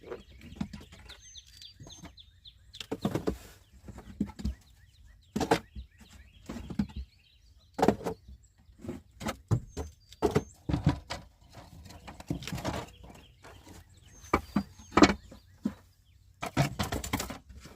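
Irregular knocks and clatter of wooden beehive frames and boxes being handled and set down, some sharp and some scraping. Birds chirp during the first couple of seconds.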